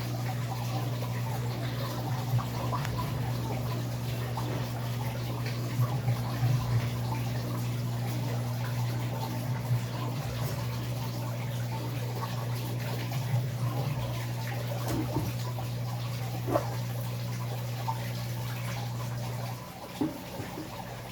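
Electrolux LAC13 13 kg washing machine running with water sloshing and splashing over a steady hum. The hum cuts out near the end.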